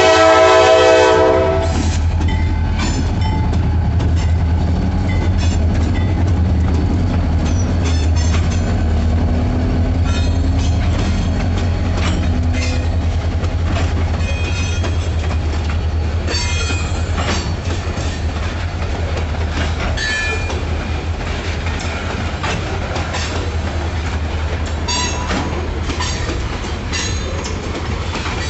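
A Kiamichi Railroad freight train's horn sounds a loud chord and cuts off about a second and a half in. Then the diesel locomotives rumble past and the covered hopper cars roll by, their wheels clacking over the rail joints.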